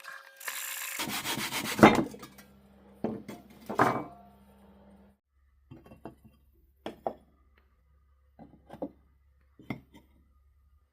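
Hand-tool workshop noise: a stretch of scraping near the start, then a few loud knocks over the next couple of seconds, and lighter clicks and taps later on.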